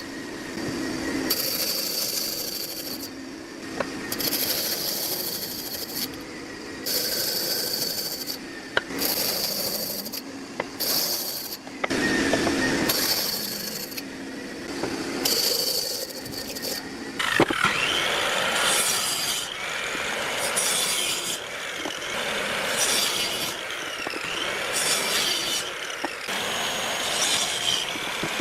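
Woodworking tools at work on wood: a tool runs in on-and-off bursts of a few seconds each, then about two-thirds of the way in the sound changes to steadier, continuous working.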